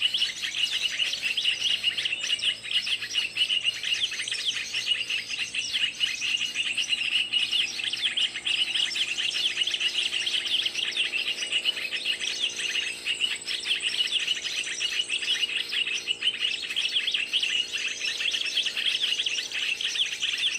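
Small birds chirping rapidly and without a break, a dense high-pitched twittering.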